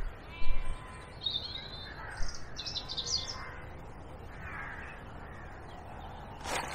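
Birds calling outdoors, a few short calls in the first half. A single sharp knock comes near the end.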